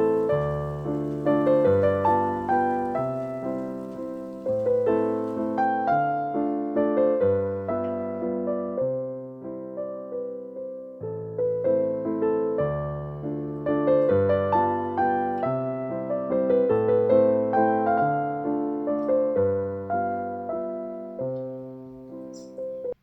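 Background piano music: a gentle melody over bass notes, cut off at the end.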